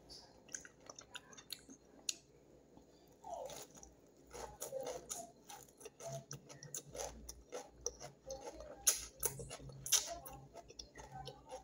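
A person chewing a mouthful of raw shredded cabbage and grated carrot salad: soft, irregular wet mouth sounds with many small clicks and smacks.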